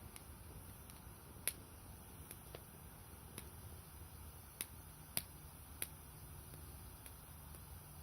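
Firewood burning in an AD151 campfire stove, crackling with sharp pops: a loud one about a second and a half in, then three more in quick succession a few seconds later, over a faint steady low noise from the fire.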